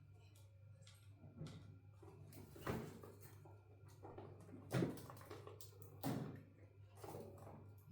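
Five sharp knocks or taps at uneven intervals of about one to two seconds, over a steady low hum.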